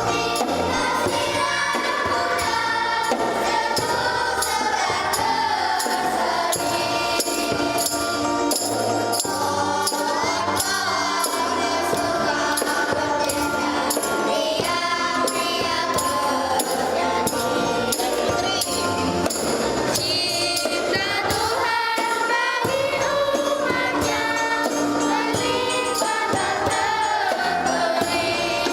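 Church choir singing a hymn over musical accompaniment, with a steady beat of short, bright high percussion strokes.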